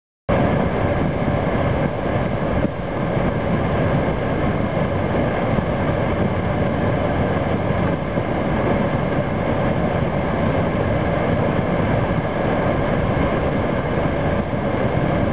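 A vehicle engine running under a loud, steady rushing noise. It starts and stops abruptly.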